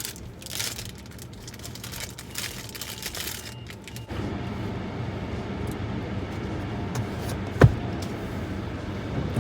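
Automatic car wash heard from inside the car: a few light clicks and rustles, then about four seconds in a steady rushing noise starts abruptly as the wash machinery begins running. A short sharp squeak sounds near the end.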